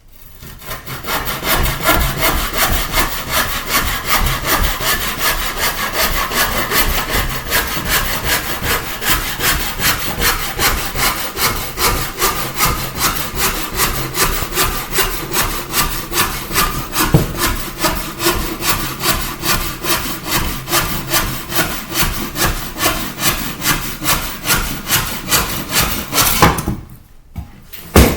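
Hand saw cutting through a piece of wood with steady back-and-forth strokes, about two a second. The sawing stops shortly before the end, followed by a brief loud knock.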